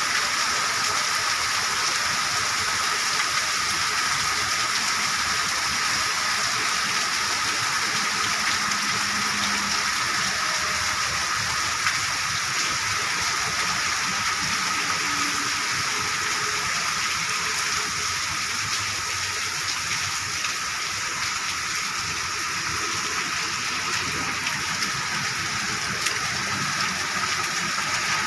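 Heavy rain pouring onto wet pavement and puddles, a steady hiss.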